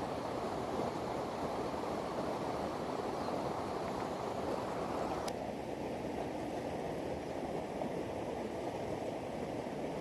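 Mountain stream rushing steadily. A single click comes about five seconds in, after which the rush sounds duller.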